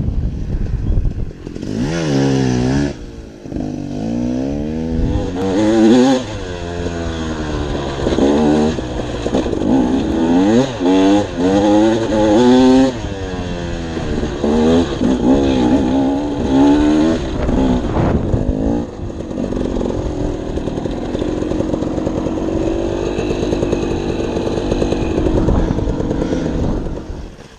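Dirt bike engine under way on a trail, its revs rising and falling again and again as the throttle is worked. It runs at a steadier pitch later on, then drops off sharply at the very end.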